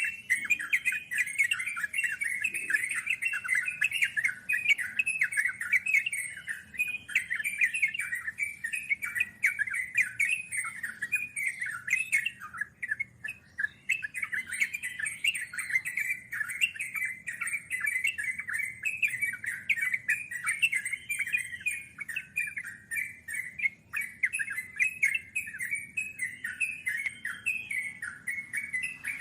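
Yellow-vented bulbul song: a fast, unbroken stream of short chirping notes with occasional arching phrases. This is the long rapid run that bird keepers call "ngeropel panjang".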